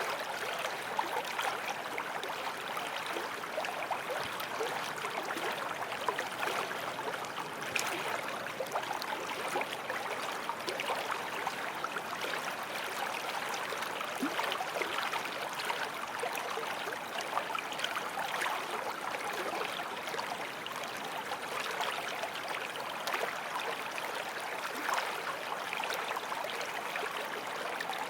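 Small forest stream flowing and babbling over stones, a steady rushing with small splashes and gurgles.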